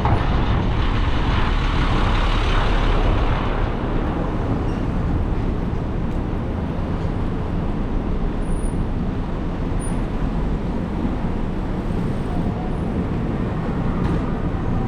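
Steady rumble of city street traffic, a little louder over the first few seconds.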